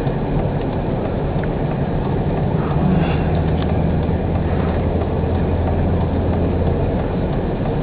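Steady noise inside a moving car's cabin: a low engine hum under a dense, grainy rattle and rumble.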